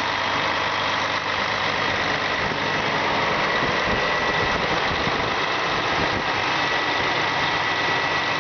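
Diesel engine from a Claas 870 forage harvester running steadily, with a steady high whine over the engine noise.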